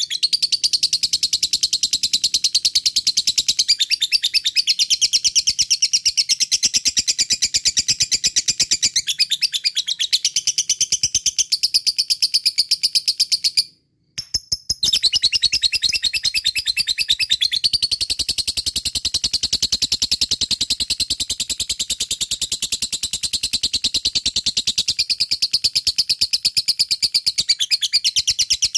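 Lovebird giving its long 'ngekek' chatter: a fast, unbroken run of sharp, high chirps. It breaks off for about a second midway, then starts up again.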